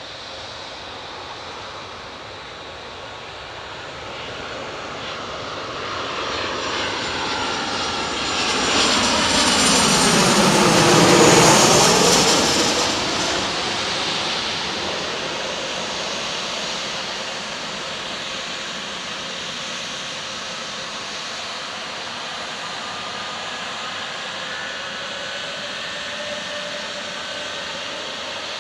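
Boeing 737 jet engines on landing approach, growing louder as the airliner passes close by, with a whine that falls in pitch as it goes past. After that it settles to a steadier, quieter roar.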